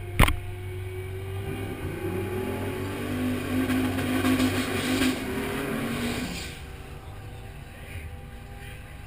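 A sharp knock of a hand on the mounted camera, then a car engine running with a steady rumble. Its pitch rises, holds for a few seconds, and drops back about six seconds in.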